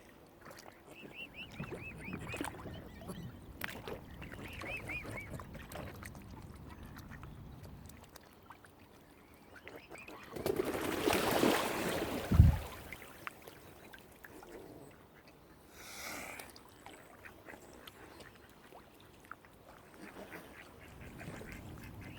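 Waterfowl calling, with quick runs of short, high, arching calls in the first few seconds. About halfway there is a loud rush of noise that ends in a deep thump.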